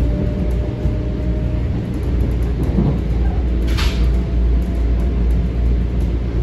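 Interior ride noise of a Metro-North M7 electric train under way: a steady low rumble of the car running on the rails. A thin motor whine fades out within the first two seconds, and there is a brief hiss about four seconds in.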